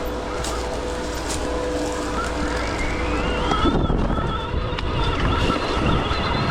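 Stark Varg EX electric dirt bike's motor whining, rising in pitch about two seconds in as the bike speeds up, then holding high. Wind noise on the microphone and a low rumble run underneath, with a few sharp ticks.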